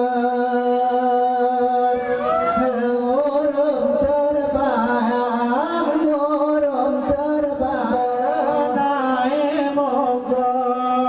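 A group of men singing a Saman chant in unison, holding long steady high notes with short ornamented turns. Sharp claps or body slaps come in here and there from about four seconds in.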